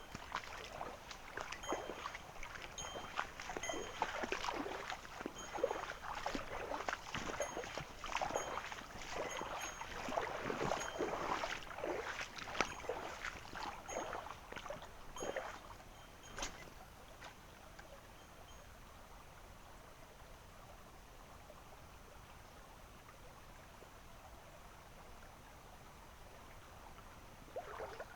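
Irregular splashing and sloshing of shallow stream water, busy for the first sixteen seconds or so. After that only the steady rush of a small mountain stream is left.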